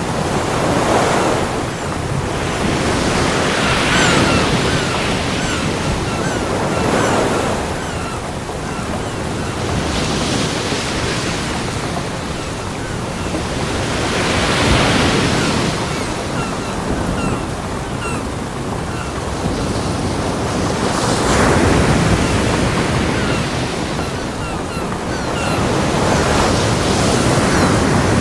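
Ocean surf breaking on a beach: a steady rush of water, with a wave swelling and washing in every three to four seconds.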